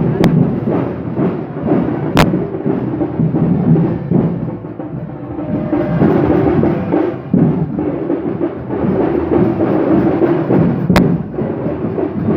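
Percussion band drums playing continuously, with three sharp cracks cutting through: one right at the start, one about two seconds in and one near the end.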